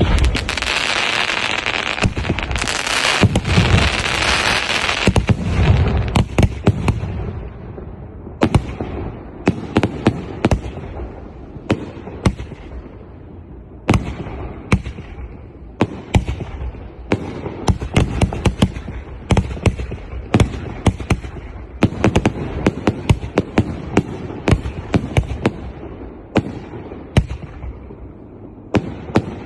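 A 50-shot 2.5-inch consumer firework cake firing its volley: a dense, continuous rush of noise and bangs for the first five seconds or so, then a long run of sharp reports roughly every half-second to second.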